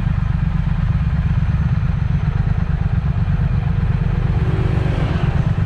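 Triumph Speed Twin's parallel-twin engine running through a Vance & Hines aftermarket exhaust while under way, a steady low rumble.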